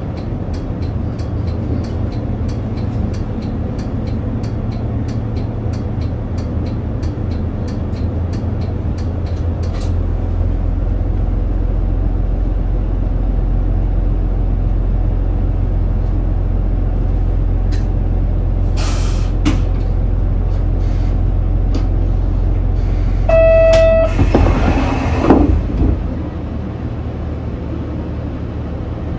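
Interior running sound of a route bus: steady diesel engine rumble, with an indicator ticking about twice a second for the first ten seconds. The engine then pulls harder. Near the end a short beep is followed by a loud burst of air hiss, and the engine settles back down.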